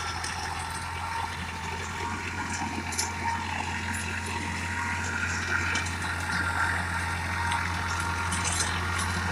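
Massey Ferguson 5245 tractor's three-cylinder diesel engine idling steadily, a constant low hum.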